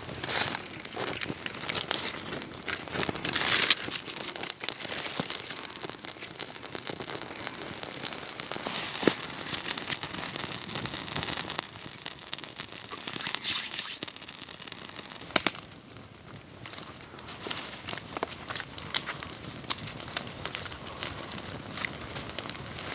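Campfire crackling and hissing, with scattered sharp pops from the burning wood; it is busier in the first part and quietens about two-thirds of the way through.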